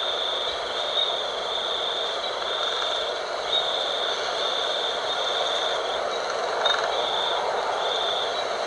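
Night wind blowing steadily, with a high, thin trill above it that comes and goes in pulses of about a second.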